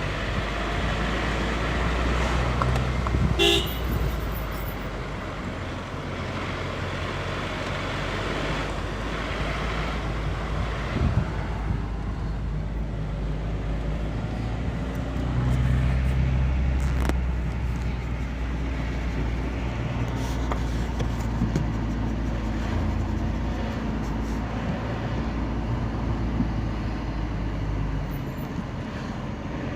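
Engine and road noise of a car driving, heard from inside the cabin, with a short horn toot about three seconds in.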